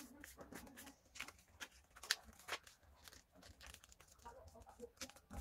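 A sheet of paper being handled and folded, with faint crinkling and a few sharp creasing crackles, the loudest about two seconds in.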